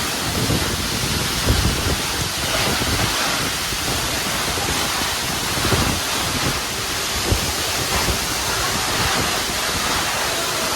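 A large waterfall in full monsoon flow: steady rushing roar of falling water with uneven low rumbling underneath.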